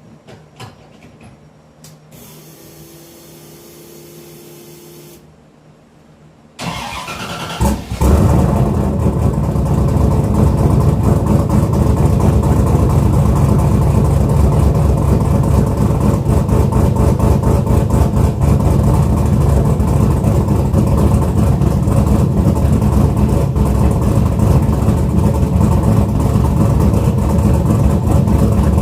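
Turbocharged 5.3-litre GM LS V8 cold start: after a faint whine lasting a few seconds, the starter cranks briefly, the engine catches, and it settles into a loud, steady cold idle.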